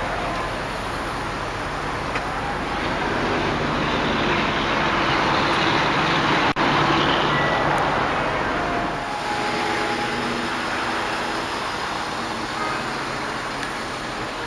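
Mercedes-Benz ML500's V8 idling, heard at its dual exhaust tailpipes, a steady rumble and hiss that grows louder through the middle of the stretch and eases off again.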